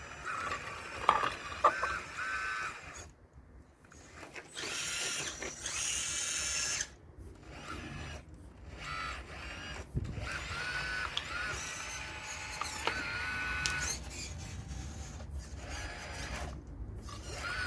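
Caterpillar RC model excavator's electric motors whining in short on-off spells as the machine moves, the pitch stepping up and down. Two sharp knocks come about one and two seconds in.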